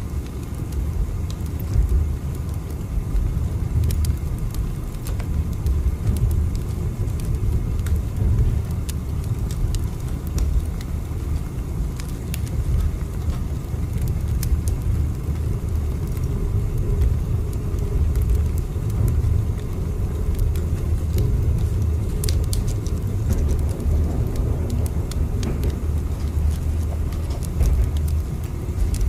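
Steady low rumble of a moving train, with scattered faint clicks and crackles over it.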